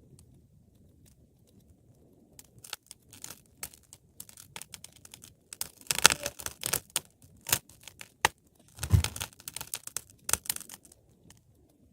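Wood fire crackling and popping: a few scattered snaps that thicken into two dense bursts of crackle, about halfway through and again a few seconds later, the second with a low thud.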